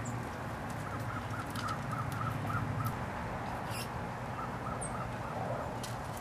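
A bird calls two runs of short, evenly repeated notes, the first about a second in and the second just past the middle, over a steady low hum. Scattered soft clicks of dry leaves are stirred by an American robin foraging in the leaf litter.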